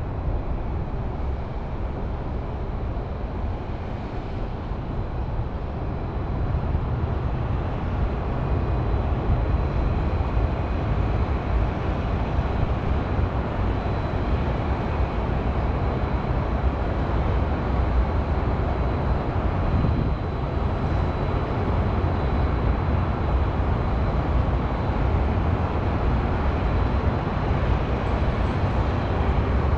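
Steady hum of highway traffic in a city, a continuous rumble with no distinct events, and a faint high steady whine above it.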